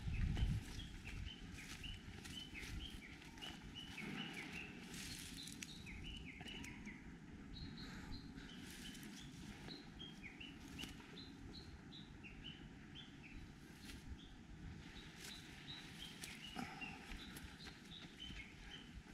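Small birds chirping: many short, high calls repeating over a quiet background, with a few faint taps.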